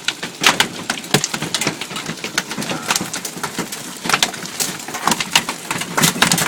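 Rain with scattered hailstones falling, an irregular patter of sharp hits.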